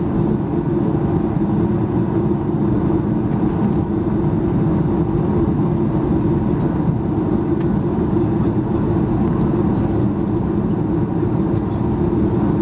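Steady cabin noise inside a Boeing 737-800: its CFM56 engines running at low, even power with the rush of cabin air, without any build-up of thrust.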